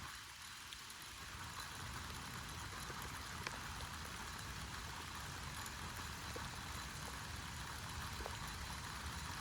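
Steady outdoor background noise: an even hiss with a low rumble underneath and a few faint ticks.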